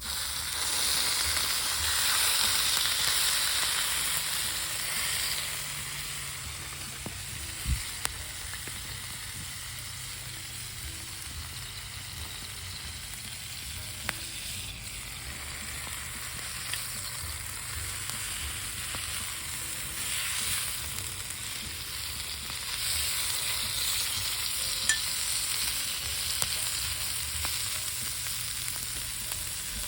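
Meat sizzling on a thick steel griddle: a steady frying hiss, loudest in the first few seconds, with a few small pops of fat.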